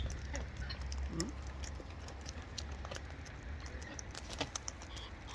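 Scattered sharp clicks and taps, several a second, over a low steady rumble, with one short low sound about a second in.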